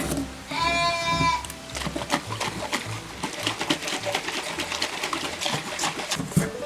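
Background music, with one lamb bleat lasting just under a second about half a second in, followed by quick clicks and taps.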